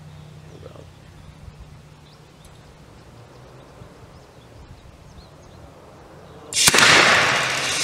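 Quiet background, then about six and a half seconds in a sudden loud bang as the PB-0 rocket engine lights in a hard start: accumulated propellant igniting at once. A loud, steady rushing hiss of the engine firing follows.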